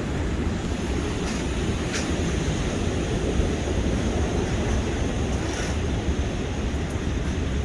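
Steady low rumbling wash of wind and surf, with wind buffeting the microphone.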